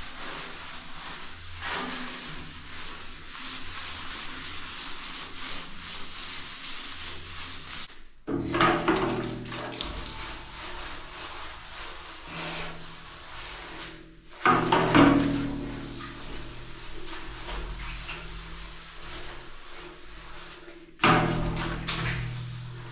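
A brush scrubbing the inside of a stainless-steel milk bulk tank: steady rubbing, with three sudden loud knocks against the tank that ring briefly.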